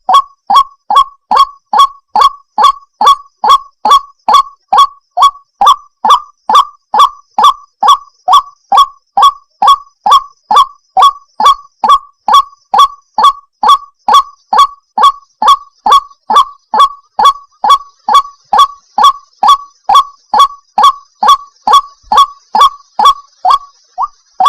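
White-breasted waterhen calling: a loud, monotonous series of short 'kwak' notes, each dipping slightly in pitch, repeated a little over twice a second without a break.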